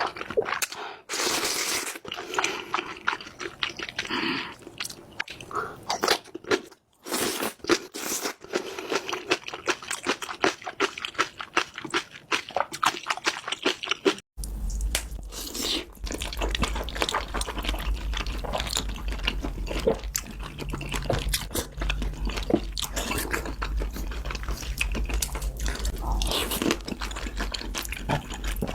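Close-miked eating of Buldak spicy ramen noodles: wet chewing, biting and crunching mouth sounds in quick irregular succession. About halfway through, a low steady hum joins the chewing.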